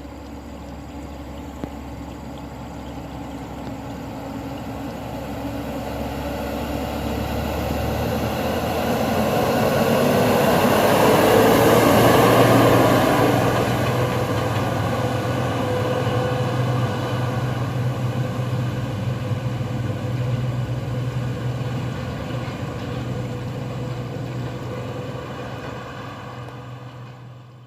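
Loaded dump truck's diesel engine pulling up a steep grade. It grows louder, is loudest about twelve seconds in as it passes close, then runs on more quietly and fades out at the end.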